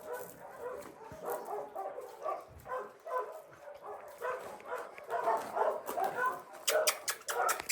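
Dogs barking and yipping, short barks one after another. A cluster of sharp clicks comes near the end.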